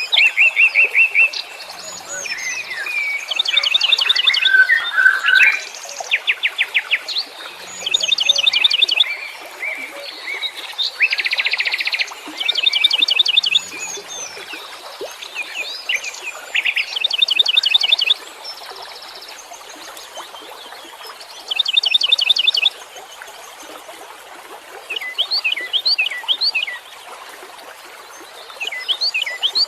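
Wild songbirds singing. Short phrases of fast, rapidly repeated high notes, each about a second long, come every couple of seconds, with scattered chirps between them.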